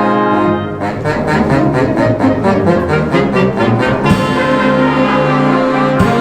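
Brass band playing a Christmas fanfare flourish: a held chord, then fast repeated notes about four a second from about a second in, then broad held chords from about four seconds in.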